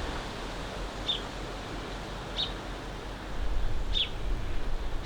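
A bird calling outdoors: short, high chirps repeating about every second and a half over a steady background hiss, with low rumbling coming in from about three and a half seconds in.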